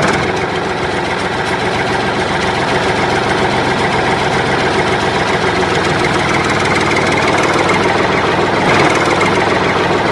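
A vehicle engine idling steadily. It starts abruptly, as if cut in.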